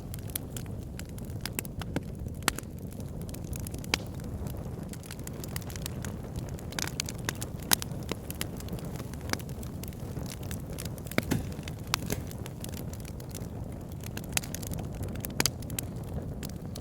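Campfire burning with a steady low rumble and irregular crackles, and a few louder pops among them.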